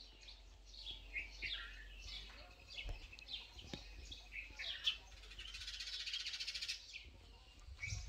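Small birds chirping: many short, quickly falling calls overlapping one another, with a rapid buzzing trill for a second or so past the middle.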